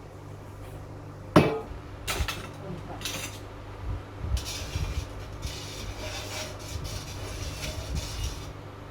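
A metal utensil knocking a few times against an iron wok, then scraping around it while stirring coconut curry, over a steady low hum.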